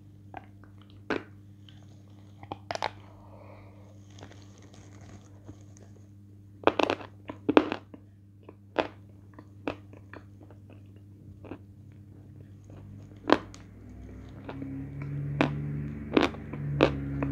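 Close-miked eating sounds: sharp crunching bites into a hard, chalky white chunk coated in soft paste, then wet chewing clicks and lip smacks at irregular intervals. A low steady hum rises slightly near the end.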